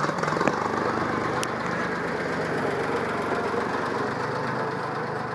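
Ford tractor engine idling steadily, with a couple of short knocks about half a second in.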